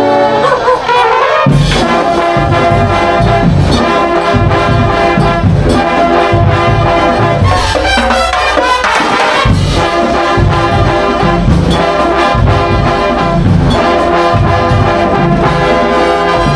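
A drum and bugle corps playing: a brass line of bugles over marching drums beating a steady pulse. The drums come in about a second and a half in, drop out briefly around the middle and come back.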